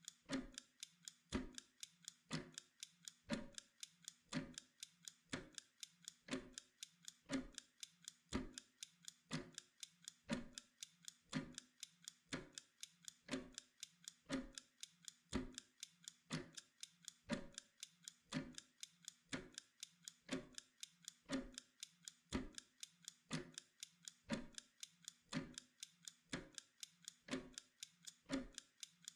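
Mechanical timer ticking steadily, a louder tick about once a second with fainter ticks between.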